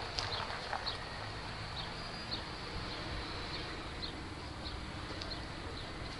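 Freight train of boxcars rolling slowly past: a steady low rumble with short high-pitched wheel squeaks every half second or so.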